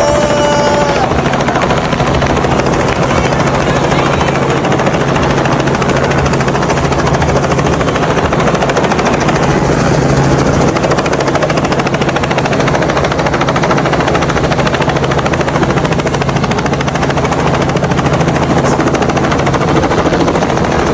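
Helicopter flying overhead, its rotor and engine making a loud, steady, unbroken noise.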